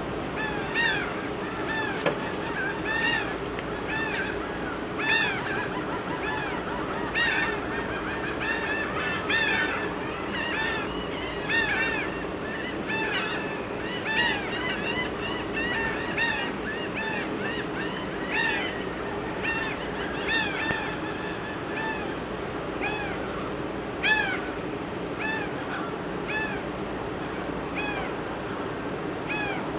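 A dense chorus of many birds calling at once, short arched calls overlapping continuously, over a steady low hum.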